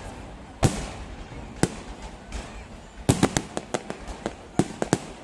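Fireworks going off in sharp, separate bangs: two single bangs about a second apart, then a quick run of about a dozen bangs starting about three seconds in.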